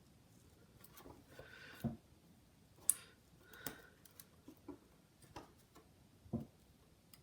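Faint, scattered clicks and light taps of small repair tools working on the parts of a 5th-generation iPod Nano. There are about half a dozen of them, the sharpest about three seconds in.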